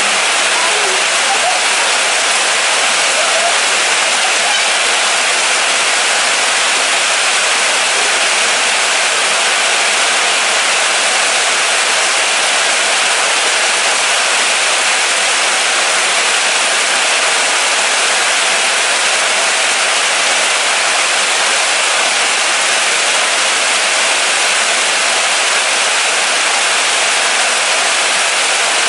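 Steady moderate rain falling, an even hiss that holds at the same level throughout.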